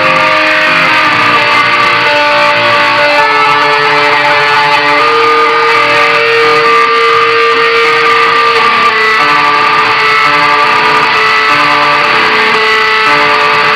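Metal band playing live, electric guitars holding long melodic notes that change every second or so over the rest of the band.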